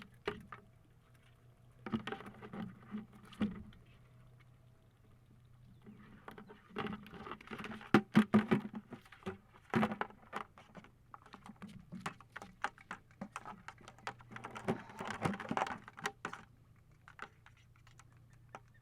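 Wire crab trap rattling and scraping in irregular clusters of sharp clicks as a blue crab is shaken and worked loose from it.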